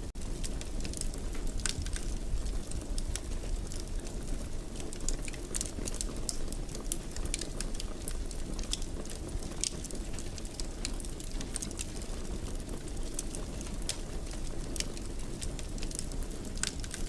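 Fire in a fireplace crackling, with frequent sharp irregular pops and snaps over a steady low rumble of the flames.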